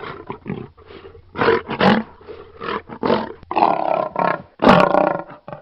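Lion roaring: a run of rough, deep roars one after another, the later ones longer.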